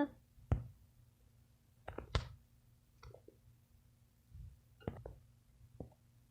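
Scattered light clicks and taps of plastic toys being handled and set down, about half a dozen irregular knocks.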